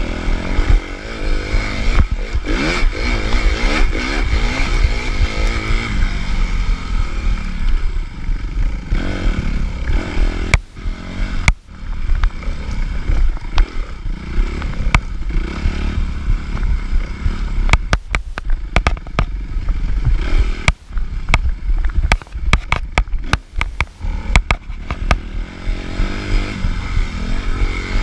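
Suzuki RM-Z250's single-cylinder four-stroke engine revving up and down through the gears on a dirt bike at race pace, with many sharp knocks and clatters from the bike over rough ground, most of them in the second half.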